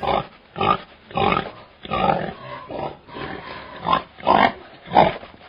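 A farm animal giving a run of short, rough calls, about nine in all, each a fraction of a second long and spaced roughly half a second apart.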